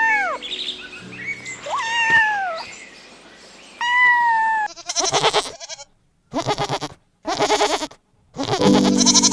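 Goats bleating: three clear, pitched calls that rise and fall, then four quavering bleats in the second half, about a second apart.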